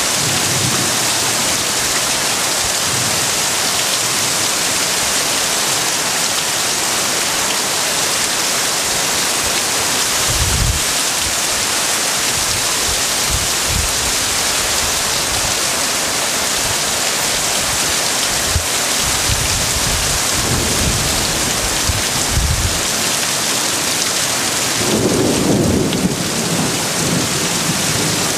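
Heavy rain pouring steadily in a dense hiss, with wind gusts buffeting the microphone in irregular low thumps through the middle stretch.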